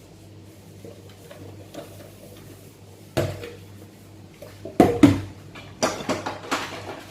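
Dishes clattering as a small child washes them in a sink: a single knock about three seconds in, then a cluster of louder clanks and knocks near the end.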